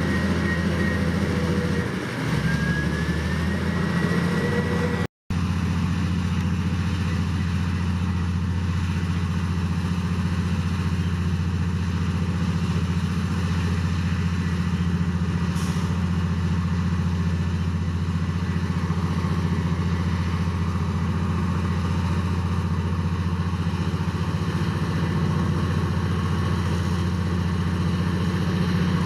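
Heavy diesel engine of an earthmoving machine running steadily under a constant low drone. The pitch rises briefly about two to four seconds in, and the sound cuts out for a split second about five seconds in.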